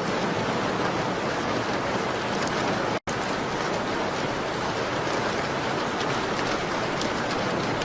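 Steady rain pattering on a window, an even hiss with faint light ticks on top. The sound cuts out for a split second about three seconds in, then resumes.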